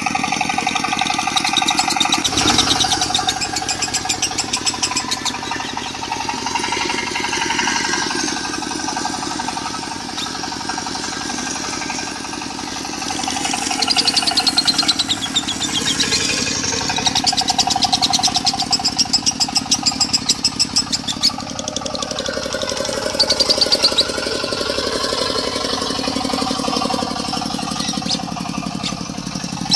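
Lovebird singing a long, rapid, continuous chattering trill, the 'konslet' style, over a diesel engine idling with a steady low hum.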